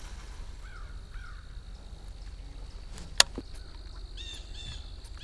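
Birds calling: a couple of short chirps about a second in, then a quick run of repeated clear, arching calls near the end. A single sharp click about three seconds in is the loudest moment, over a faint steady high whine and a low rumble.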